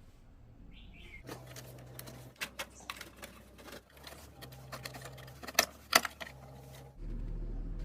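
Irregular clicks and taps of a cassette player and its parts being handled, with two sharper clicks near the end. A low steady tone comes and goes under them. About seven seconds in, a steady electrical hum starts.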